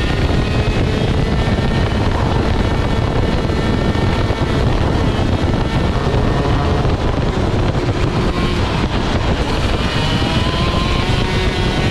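Vortex Rok GP 125 cc two-stroke kart engine at racing revs, heard on board, its pitch rising and falling as the kart accelerates and lifts through the corners.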